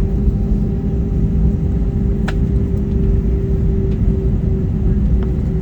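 Steady low rumble of an airliner cabin, the engines and airflow heard from a window seat, with a steady hum running through it. A single short click about two seconds in.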